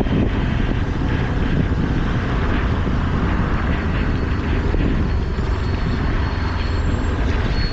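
Steady engine and wind noise of a motorcycle on the move. A faint high-pitched whine comes in about four seconds in.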